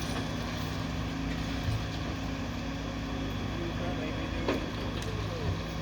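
An engine running steadily with a low drone, with a short knock about four and a half seconds in.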